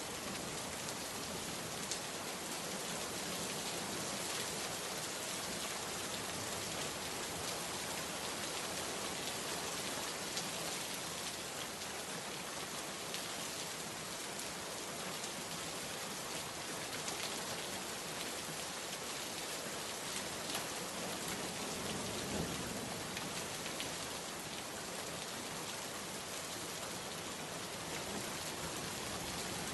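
Rainstorm: heavy rain falling steadily as a dense, even hiss, with scattered sharper drop hits.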